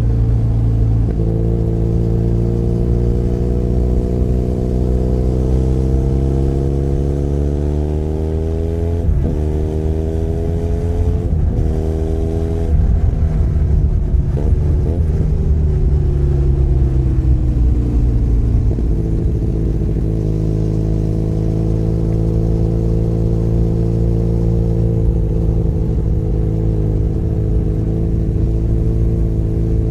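Benelli Leoncino 500 Trail's parallel-twin engine pulling up through the revs with two quick upshifts, then rolling off so the revs sink gradually over several seconds, then holding a steady cruise to the end.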